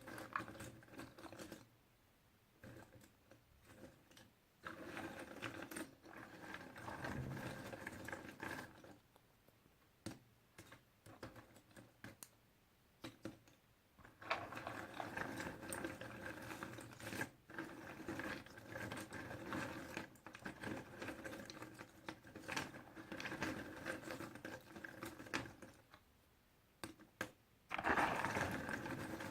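Puzzle pieces being handled and shuffled: dense clicking and light rustling that comes in stretches of several seconds, with short quieter pauses between.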